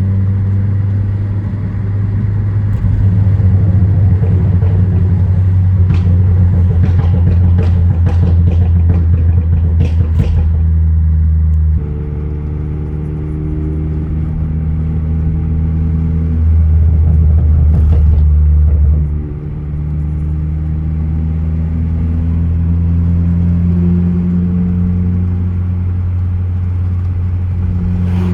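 2014 Ford Focus ST's turbocharged 2.0-litre EcoBoost four-cylinder pulling through the gears, the engine note dropping sharply at each shift and climbing again. A stratified tune gives sharp exhaust pops and crackles several seconds in and again a little past halfway.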